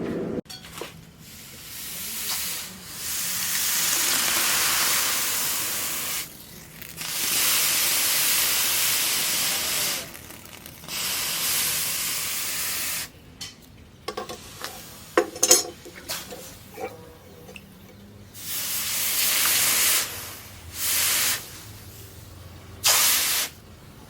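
Hot forged steel blade hissing and sizzling in water in repeated bursts of a few seconds each as it is quenched, with a few metallic clanks in between.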